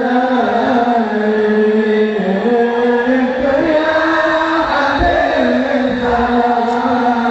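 Chanted devotional singing in slow, drawn-out held notes that glide between pitches, in the style of Islamic sholawat.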